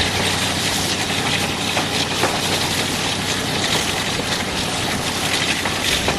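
A diesel locomotive's engine running steadily, a low hum under a constant rushing noise.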